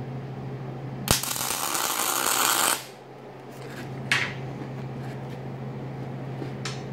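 Metal fabrication shop machinery running with a steady hum. About a second in comes a sharp click, then a loud hiss lasting nearly two seconds that stops suddenly. Two brief hisses follow later.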